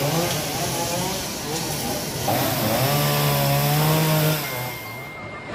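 Chainsaw running and revving as it cuts through a fallen tree trunk, its pitch rising and falling. It dies down near the end.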